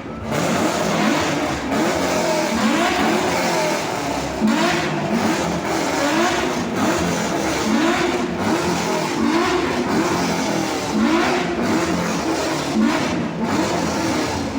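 Muscle car engine being revved hard over and over, its pitch climbing and dropping in quick blips about once a second. Loud enough to leave a listener feeling deafened.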